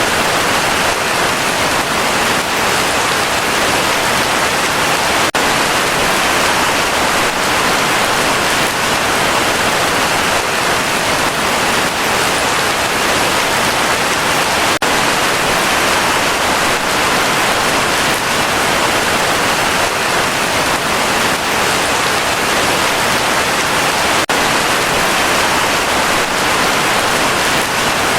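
Heavy rain falling steadily, a dense even hiss of water, with a couple of momentary dips in level.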